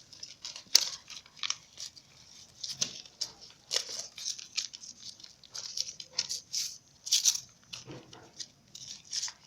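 Paper being handled and folded: irregular crinkles and rustles, with a few sharper crackles.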